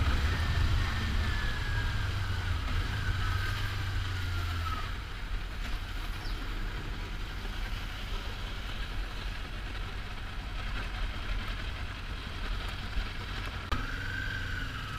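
Kawasaki Ninja 400 parallel-twin engine winding down, its pitch falling over the first few seconds, then idling low and steady. Near the end the pitch rises again as the bike pulls away.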